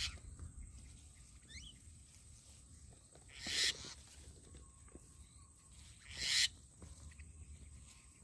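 Two harsh, hissing bird calls about three seconds apart, each about half a second long, with a few faint short chirps before the first. A steady high tone runs underneath.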